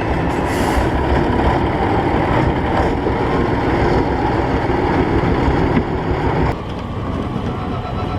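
Heavy trial truck's diesel engine running hard, a steady low mechanical din; the higher part of the sound falls away about six and a half seconds in.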